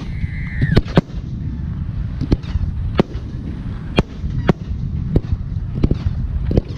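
Aerial firework shells bursting: a string of sharp bangs at irregular intervals, about a dozen in all, over a steady low rumble.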